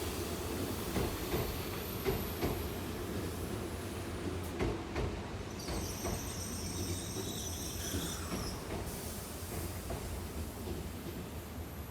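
N700S Shinkansen train running slowly out of the depot: a steady low rumble with irregular wheel knocks over rail joints. About halfway through, a high whine or squeal comes in and fades about two seconds later.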